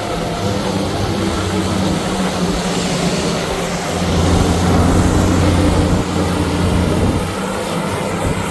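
An engine running steadily with a low hum, growing louder about four seconds in and easing off after about seven seconds.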